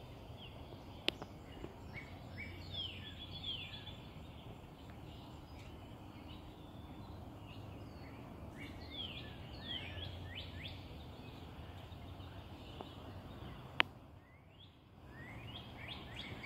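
Songbirds chirping in short clusters of quick falling notes over a steady low background hum. A sharp snip from hand pruners about a second in, and another sharp click near the end.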